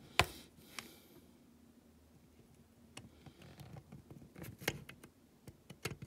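Scattered light clicks and taps from handling small parts on a workbench while a rivet is worked into a hole in a die-cast toy van. One sharp click shortly after the start is the loudest, and a run of smaller ticks follows in the second half.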